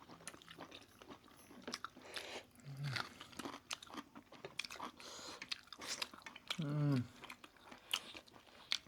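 A person biting and chewing food close to the microphone: many quick crunches and wet mouth clicks, with a brief voiced sound from the eater near seven seconds.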